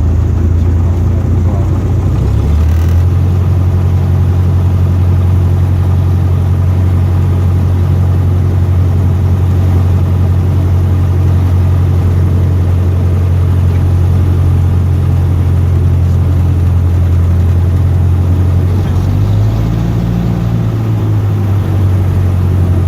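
Cessna 152's four-cylinder Lycoming engine and propeller running with a steady low drone. The pitch steps up slightly early on, then rises briefly about nineteen seconds in before settling back, as with small throttle changes.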